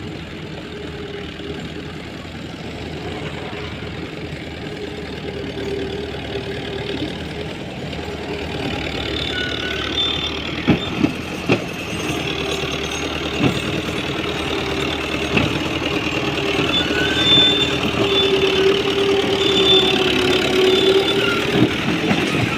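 Ghazi tractor's diesel engine running steadily and slowly growing louder, with a few sharp knocks around the middle.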